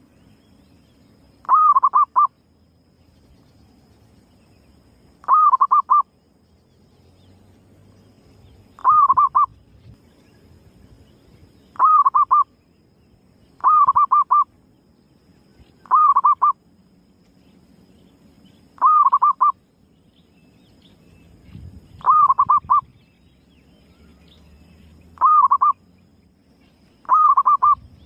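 Female zebra dove (perkutut) calling, the lure call used to draw other perkutut: ten short trilled coos, each a quick run of notes lasting under a second, repeated every two to four seconds.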